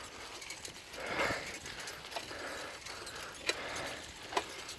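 A bicycle being ridden, with a few sharp, spaced-out clicks and knocks from its frame and parts over a faint hiss.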